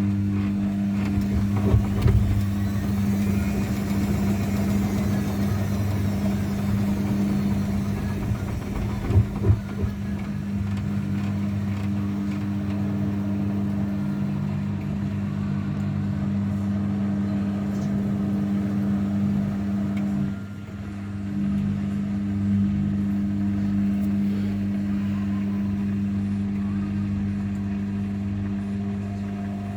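Zanussi washing machine running with a steady mechanical hum, with a couple of short knocks about two and nine seconds in and a brief dip in the hum near two-thirds of the way through.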